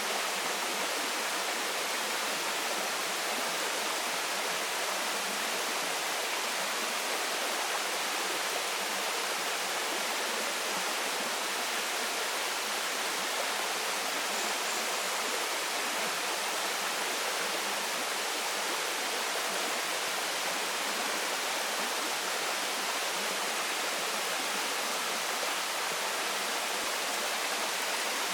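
Waterfall pouring steadily, a continuous even rush of falling water with no change in level.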